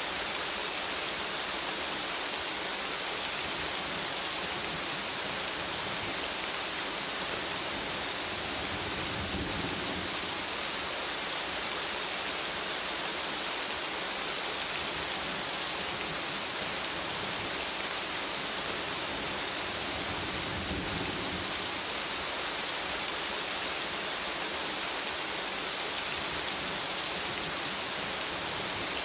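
Steady rainfall, an even hiss of drops, with two soft low rumbles about a third and two-thirds of the way through.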